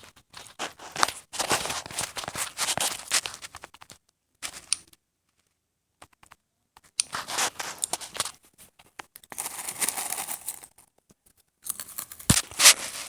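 Irregular crunching and crackling noise in bursts, broken twice by silence.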